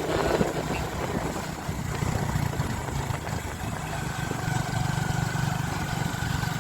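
Motorcycle engine running steadily under a continuous hiss of road and air noise.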